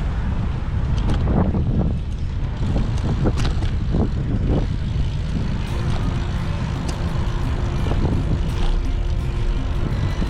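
Steady low rumble of wind buffeting the microphone while riding, with short, brief higher sounds scattered through it and a faint steady hum joining about halfway.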